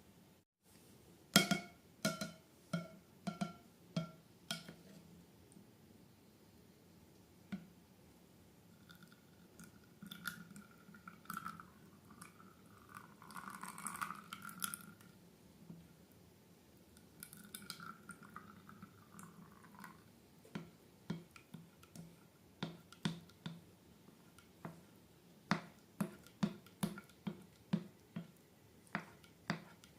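Slime being handled and mixed in a container. A quick run of sharp taps with a slight ringing comes first, then soft wet squishing and stirring in the middle, then a steady series of sharp clicks about twice a second near the end.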